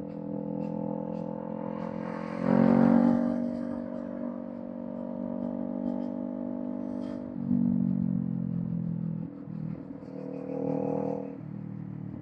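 Kawasaki Z400 parallel-twin engine through a Villain M1 aftermarket exhaust, running at fairly low revs. The throttle opens sharply about two and a half seconds in and again near eight seconds, and the engine note dips and rises a few times near the end.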